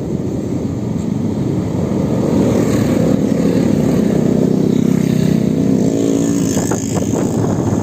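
Electric motorbike running, its motor whine climbing in pitch a few seconds in as it speeds up.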